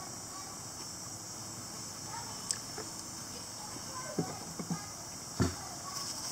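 A person chewing food, with a few short soft knocks and clicks from handling the food and cup, the loudest about five seconds in, over a steady high hiss.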